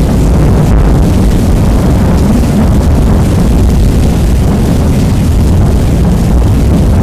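Rain noise, heavily bass-boosted and overdriven, so it comes through as a loud, steady, distorted low rumble without distinct drops or claps.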